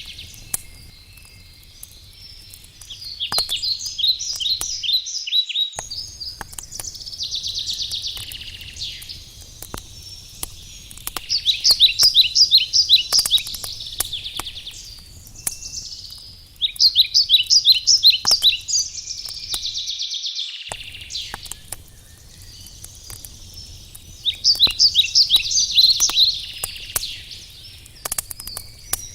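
A songbird repeating a short, fast trilled song every few seconds, over the sharp pops and crackles of a wood fire burning.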